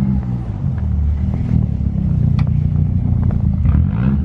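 Front-wheel-drive car's engine running hard under throttle, its pitch shifting up and down, during an attempt to drift in snow.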